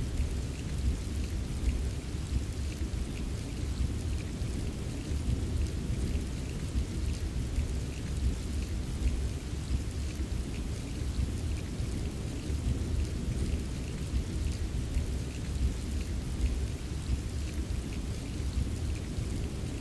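Steady rainfall with a continuous low rumble of thunder underneath and a light patter of scattered drops.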